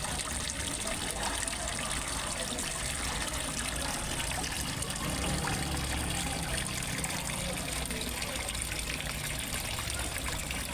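Steady trickling and splashing of water falling into a fish pond, as from a small waterfall.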